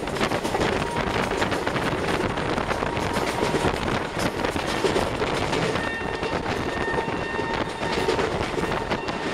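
Indian Railways express train running at over 100 km/h, heard from inside a coach: a loud, steady rush of wheel-on-rail noise with rapid clicks from the track. A faint thin high tone joins in about six seconds in.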